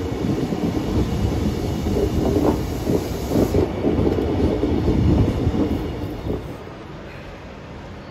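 A train running on the rails, a loud low rumble with irregular wheel clatter that dies down about six and a half seconds in.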